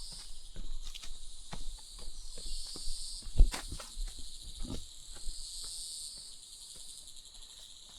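Insects chirring steadily in a high, even haze, with irregular clicks and knocks close by for the first five seconds or so. The loudest knock comes about three and a half seconds in.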